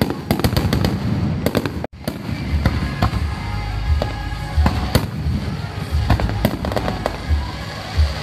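Aerial fireworks display: rapid, continuous shell bursts cracking and booming one after another, with music playing behind. The sound breaks off for an instant about two seconds in.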